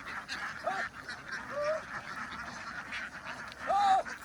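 A flock of domestic ducks quacking in a dense, continuous chatter. Three louder single calls stand out, the loudest near the end.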